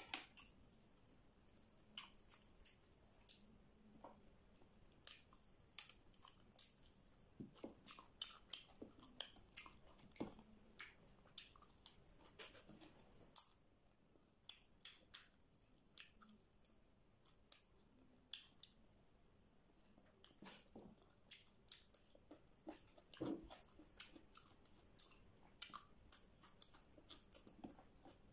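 Faint, close-up chewing and biting of fried chicken wings, with many short, sharp clicks and crunches scattered irregularly throughout.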